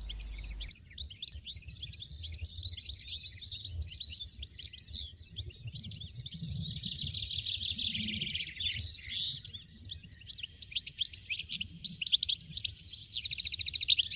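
European goldfinches at the nest twittering: dense, high, rapid chirps throughout, with a fast even run of calls near the end.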